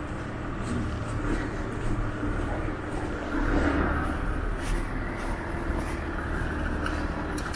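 Outdoor street noise with a motor vehicle engine running steadily, swelling briefly about halfway through.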